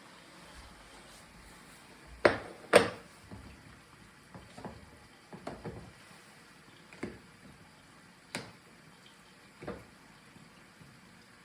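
Kitchen clatter: a series of knocks and clinks, two sharp loud ones about two seconds in, then softer ones every second or so.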